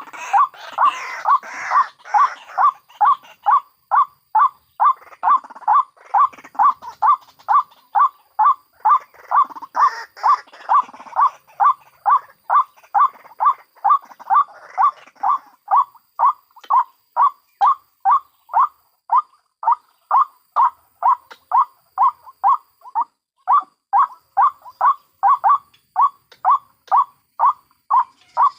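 White-breasted waterhen (ruak-ruak) calls: a steady, monotonous run of short repeated notes, about two a second. Over the first half a rougher, overlapping chatter of further waterhen calls joins in, loudest near the start and again about ten seconds in.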